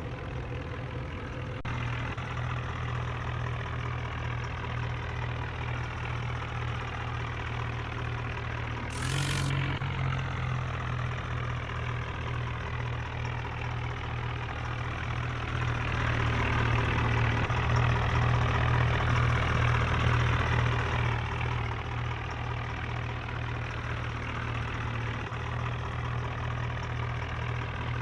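Diesel engine idling steadily, getting louder for a few seconds past the middle, with a brief hiss about nine seconds in.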